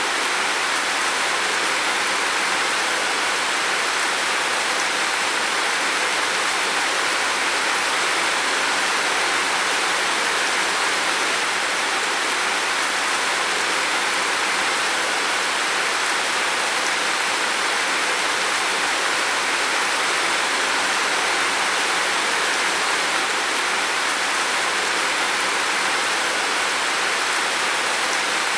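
Heavy rain falling on a roof: a dense, steady hiss of rain that does not let up.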